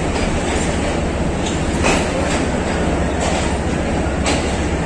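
Pakistan Railways passenger coaches rolling slowly along the track, with a steady low rumble and half a dozen irregularly spaced clacks of wheels going over rail joints.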